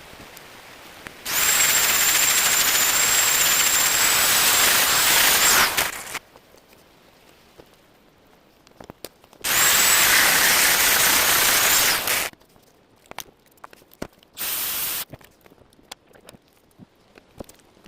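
Pressurised gas jet hissing in two long bursts of a few seconds each, with a steady high whistle, then a short third burst near the end, each cut off sharply.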